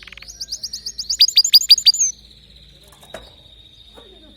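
Domestic canary singing: a fast trill of repeated high notes, then a louder run of about six sharp notes about a second in, followed by a long, faint held note.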